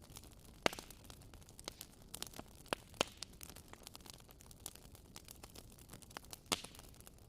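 Wood fire crackling: irregular sharp pops and snaps over a faint hiss, with three louder pops, about a second in, at three seconds and near the end.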